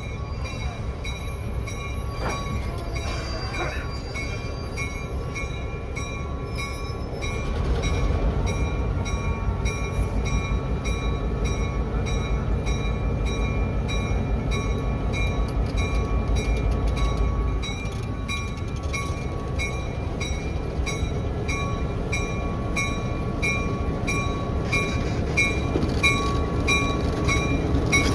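Train running with a continuous rumble that grows louder for about ten seconds in the middle, with a regular light ticking throughout.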